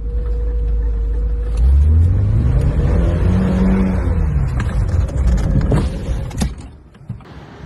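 A vehicle engine running loudly and revving up, its pitch rising for a couple of seconds, then holding before the sound falls away near the end.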